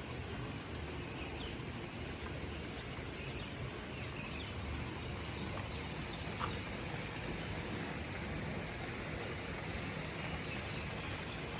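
Steady outdoor nature ambience: an even background hiss with a few faint, short bird chirps and a single brief click about six and a half seconds in.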